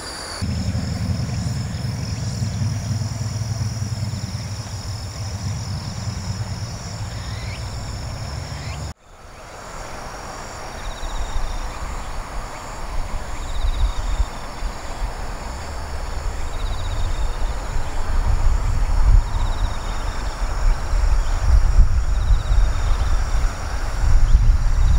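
Outdoor riverbank ambience dominated by a steady low rumble, with insects buzzing in high steady tones during the first part. After a cut about nine seconds in, faint short Oriental greenfinch calls repeat every second or two over a low rumble that grows louder toward the end.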